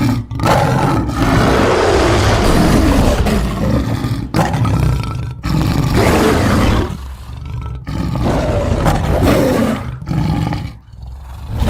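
Giant jaguar creature's designed roars, built from layered big-cat roars: a run of several long, loud roars and growls with brief breaks between them.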